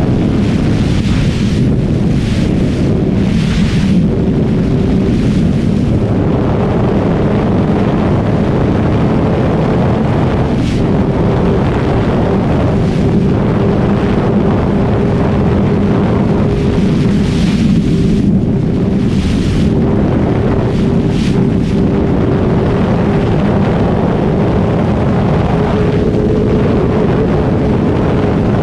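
Kawasaki ZX-6R 636 inline-four engine running at a steady cruise, its pitch holding nearly constant. Wind buffets the microphone, in gusts now and then.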